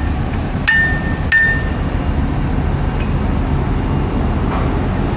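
Two sharp metallic clangs with a short ringing tone, about two-thirds of a second apart near the start: metal being struck, as with a hammer on steel. They sound over a steady low rumble of engines.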